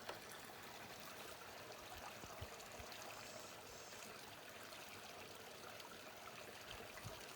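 Small mountain brook babbling and trickling steadily over rocks, faint and even.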